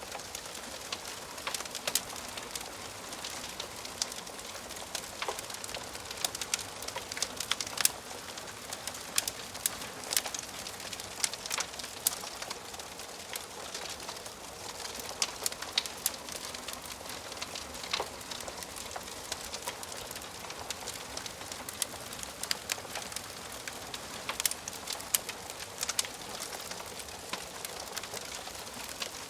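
Wood fire crackling in a fireplace: a steady hiss with many irregular sharp pops and snaps from the burning logs.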